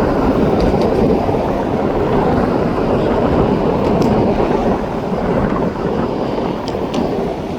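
Heavy vehicle passing close by: a loud, steady rumble that eases a little near the end.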